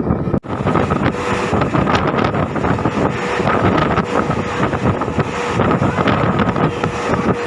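MEMU electric train running at speed, with a steady rumble of wheels on track and wind buffeting the microphone. A faint steady whine sits under the noise. The sound drops out for an instant about half a second in.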